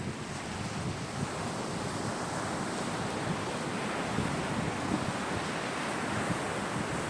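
Sea surf: a steady rush of waves breaking and washing onto the shore, swelling slightly after the first couple of seconds.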